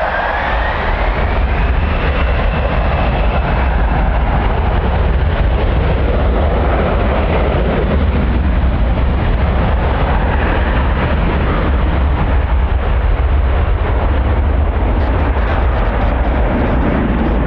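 Strong wind buffeting the microphone, with a constant deep rumble under the steady noise of a jet airliner's engines. A whine rises in pitch during the first couple of seconds, then blends into the engine noise.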